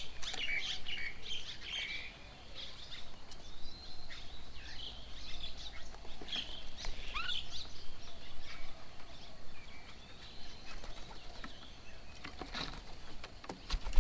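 Several birds chirping and calling in short notes at a garden bird table, with a few sharp taps or wing flaps near the end.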